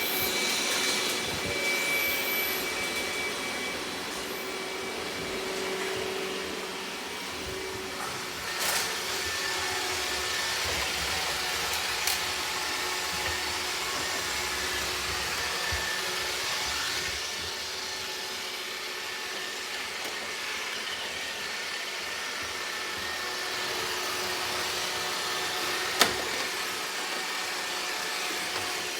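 Robot vacuum cleaner running steadily. There are a few sharp clicks or knocks along the way, the loudest near the end.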